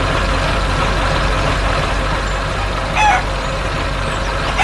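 Tractor engine running steadily, with two short chicken clucks, one about three seconds in and one at the end.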